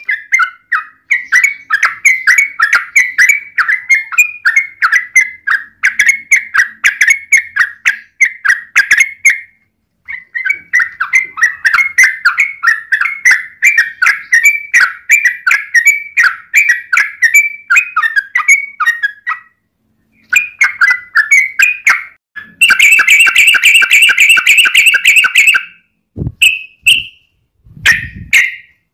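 Yellow-vented bulbul (trucukan) singing: long runs of quick, chattering bubbly phrases. Near the end comes a sustained rapid rolling trill of about three seconds, then a few short calls.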